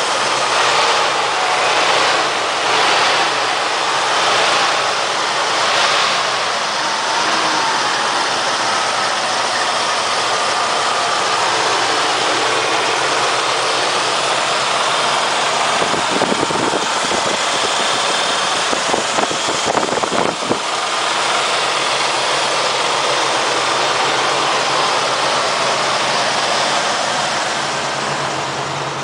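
1977 Ford LTD's 351 cubic-inch (5.8 L) V8 idling steadily, with a few brief low rumbles about two-thirds of the way through and the sound easing slightly near the end.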